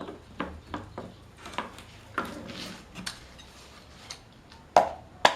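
Metal tools and engine parts clinking and knocking as they are handled, a run of light irregular clicks with two louder ringing metallic clanks near the end.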